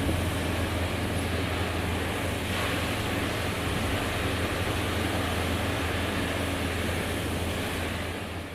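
Steady rushing noise over a low, even hum from a moving cruise ship, with wind on the microphone and the ship's engines. It begins fading out near the end.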